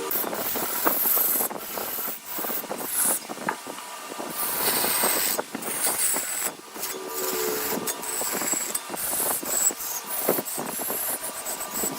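Wood lathe running with a turning tool cutting into the spinning wood: uneven scraping with frequent short clicks and a high hiss of shavings.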